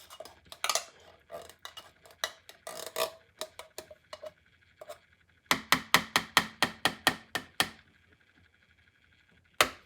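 A spoon scraping and clinking as the last spaghetti and meatballs are scooped out of a tin can, then a quick run of about a dozen sharp taps, roughly five a second, knocking the food off the spoon. One more clink comes near the end.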